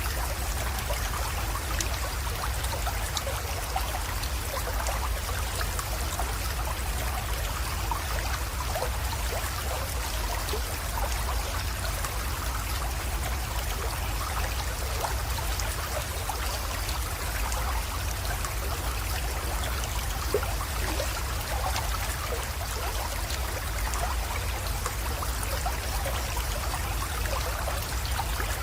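A small mountain creek trickling and splashing steadily as it flows into a pond, with a constant low rumble underneath.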